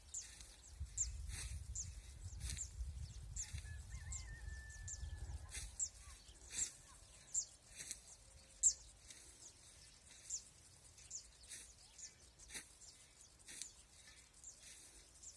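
Small bird calling: short, high chirps that slide downward, repeated about twice a second. Wind rumbles on the microphone through the first half.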